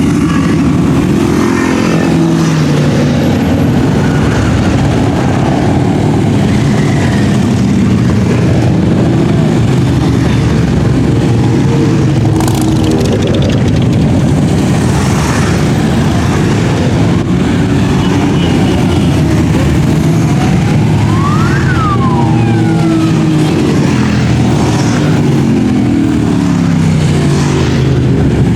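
Many motorcycle engines passing in a continuous stream, their pitches rising and falling as riders rev and change gear. About three quarters of the way in, a single tone rises and then falls.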